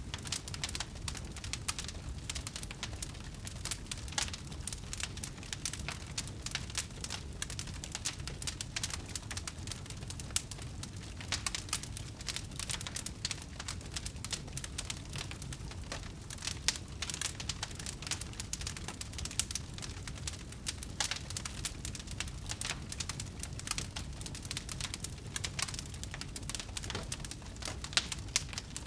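Wood fire crackling in a fireplace: a dense, irregular run of small pops and snaps over a low, steady rumble of the flames.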